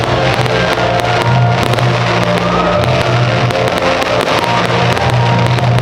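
Music with a steady bass line, with the crackles and pops of fireworks heard over it.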